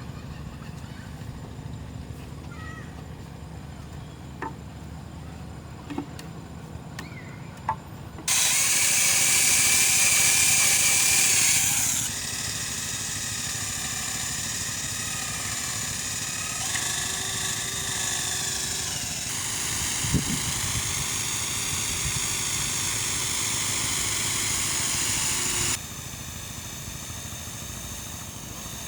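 A handheld power tool starts about eight seconds in, runs loud for a few seconds, then keeps running with its pitch wavering as it works, and stops suddenly near the end. Before it there is only a low steady hum with a few small clicks.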